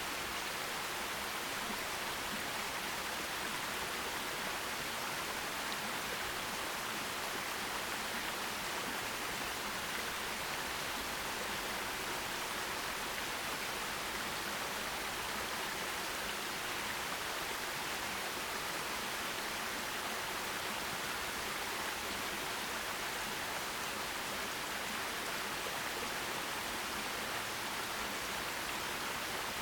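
Forest stream rushing over rocks: a steady, even hiss of running water.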